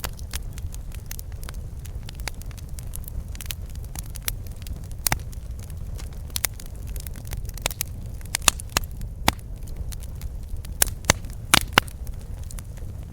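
Campfire burning: wood crackling and popping in irregular sharp snaps over a steady low rumble of the flames, with a cluster of louder pops near the end.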